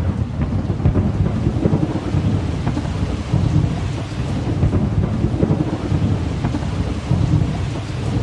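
Steady heavy rain with a continuous low rumble of thunder and scattered drops pattering.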